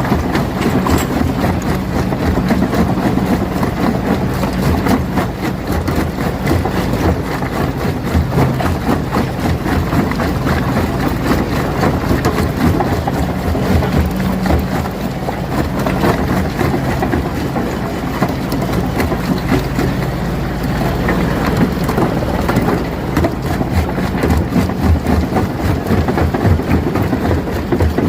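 Rock crusher running and crushing stone: a steady low machine hum under a dense, continuous clatter of rock breaking and knocking.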